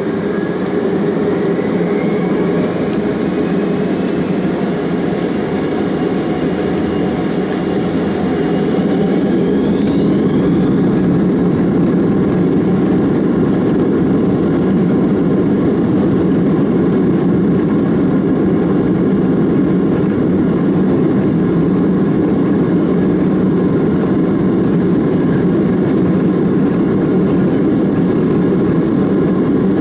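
Boeing 767's Rolls-Royce RB211 jet engines spooling up to takeoff thrust, heard from inside the cabin over the wing. A rising whine comes in the first few seconds and another about ten seconds in, then the engines run steadily and loudly at takeoff power.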